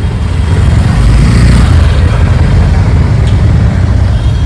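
Motorcycle riding through city traffic, heard from the bike-mounted camera: a steady, loud rumble of engine, road and rushing air, with no distinct horn or voice standing out.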